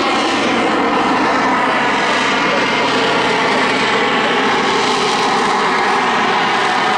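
Pitts Special aerobatic biplane boosted by two turbojets, its piston engine, propeller and jets droning steadily in a display pass, the pitch falling slowly.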